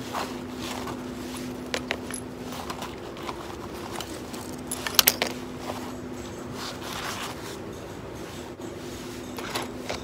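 Small metal clinks, rattles and scrapes of camp cookware being handled, with a quick cluster of sharp clicks about five seconds in, over a steady low hum.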